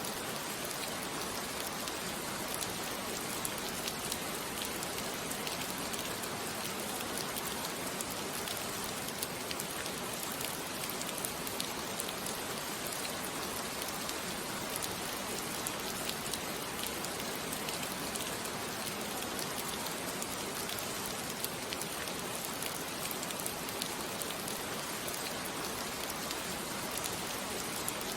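Steady rain falling on a surface, an even patter with fine scattered drop ticks and no change throughout.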